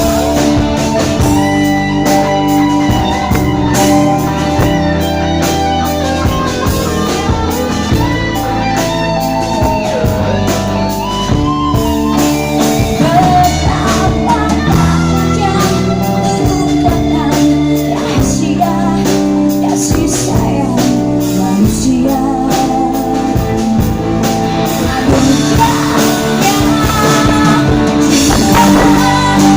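A pop song with a woman singing over guitar and band backing, playing without a break.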